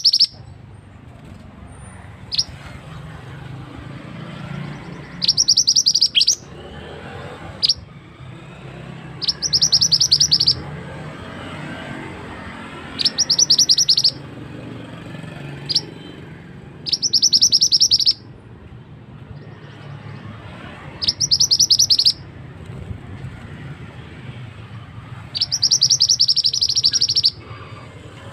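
Male mandi darah (mantenan) bird call played as a lure (suara pikat). A loud, rapid, high trill of clipped notes lasting about a second, repeated roughly every four seconds, with a single short note between some of the trills, over a low steady rumble.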